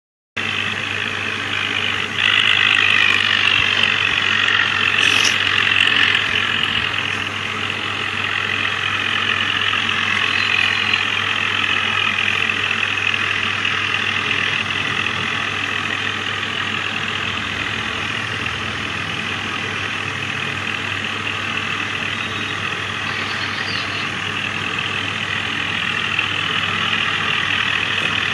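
Tractor engine running steadily, a little louder from about two seconds in.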